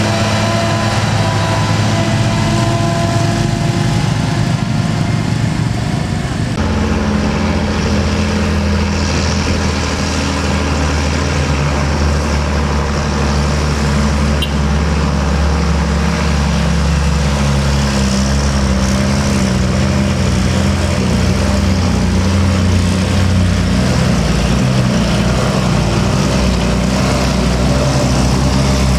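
Heavy diesel truck engines running at low revs, with the engine note changing abruptly about six seconds in.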